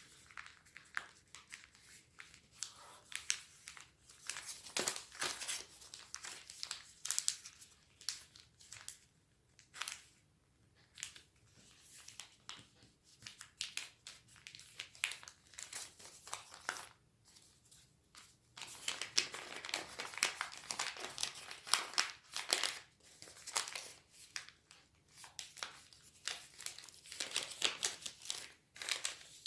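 Origami paper being folded and creased by hand: rustling and crinkling with short crisp crackles, easing off for a few quieter moments near the middle and growing denser in the second half.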